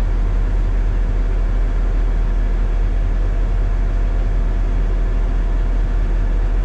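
Semi-truck diesel engine idling, a steady low hum that does not change.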